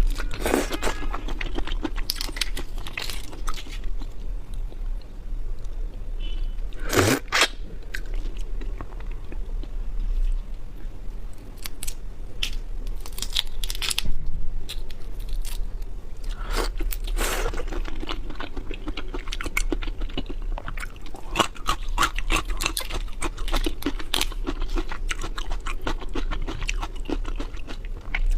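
Close-miked chewing and crunching of raw shrimp: dense crackling bites and chews, with a few louder crunches, over a steady low hum.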